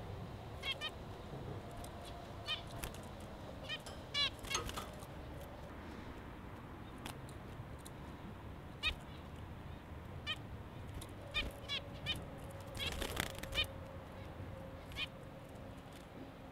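Short bird calls, scattered irregularly and coming thickest about three-quarters of the way through, over a steady low background hum.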